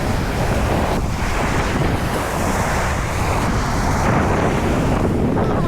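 Wind buffeting the microphone over surf breaking on the beach, a steady rough rumble with a brief rise in hiss about two seconds in.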